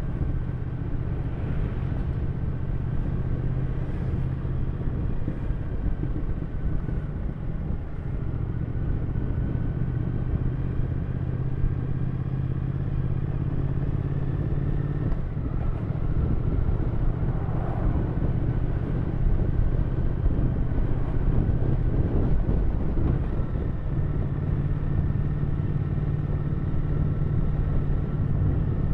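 Triumph Thruxton 1200 RS parallel-twin engine running steadily while the motorcycle is ridden, its pitch shifting a little as the revs change. It gets slightly louder about halfway through.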